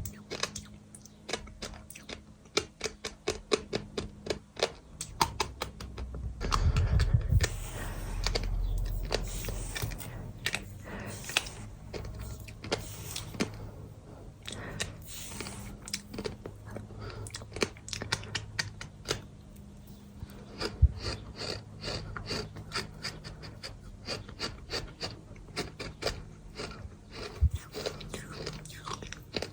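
Gritty crunching and scraping of dry and damp bird sand chunks, a rapid run of small crackles and clicks, with a heavier, denser crunch about six to ten seconds in.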